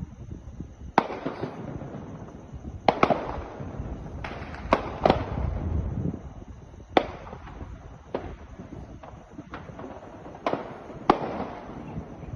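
Sporadic gunfire: about a dozen sharp, irregularly spaced shots, some in quick pairs, each echoing off the surroundings.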